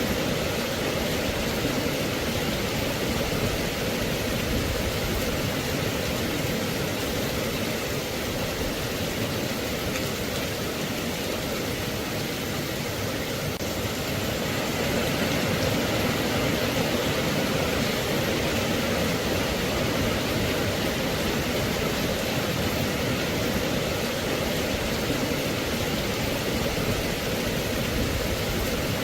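Steady rain falling, a dense even hiss with no distinct drops or thunder.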